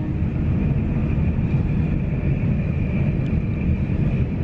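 Steady rumble of a passenger train running at speed, heard from inside the carriage, with a faint steady high whine over it.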